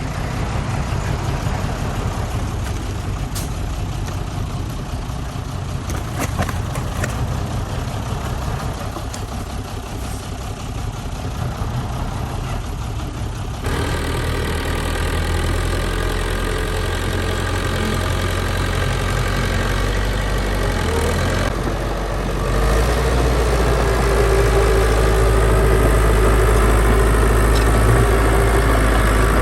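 Heavy diesel engines of earthmoving machinery running with a low, continuous rumble. The sound changes abruptly about 14 seconds in and grows louder and steadier from a little past the middle.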